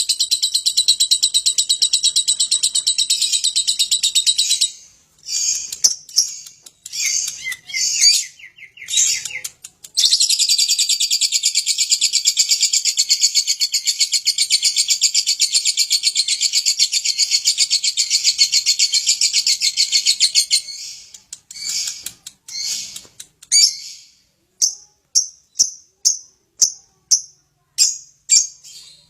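Lovebird singing a long, rapid, high chattering trill, the kind keepers call ngekek. About five seconds in it breaks into short separate chirps, then runs into another long trill of about ten seconds, and it ends with a string of sharp single chirps about two a second.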